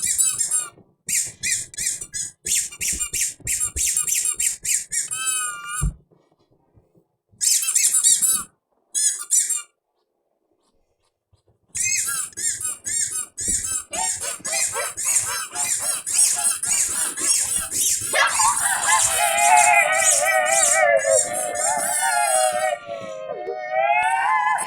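Heavily pitch-shifted, effects-processed audio: rapid, stuttering, high-pitched squeaky chirps broken by two silent gaps. In the second half a long warbling pitched tone sinks slowly, then rises near the end.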